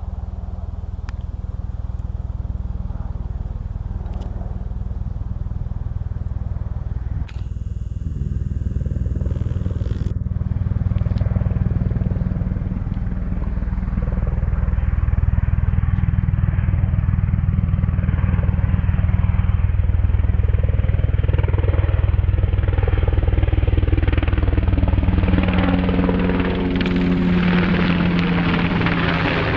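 Low-flying military aircraft passing, a deep engine rumble that grows louder through the middle and carries a steady pitched hum near the end.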